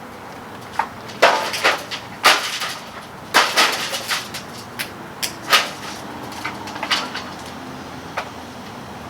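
Irregular knocks and short clattering rattles of hard objects being handled and set down, busiest in the first six seconds and sparser after.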